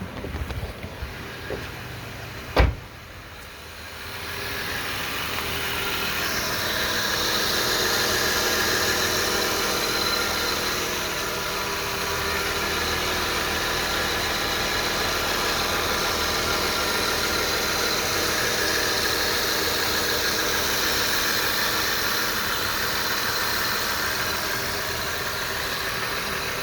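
A single thump about two and a half seconds in. Then a 2002 Lexus IS300's inline-six comes up to a steady run, with a high-pitched whine over the engine sound: the whine the owner hears at around 1,000 rpm.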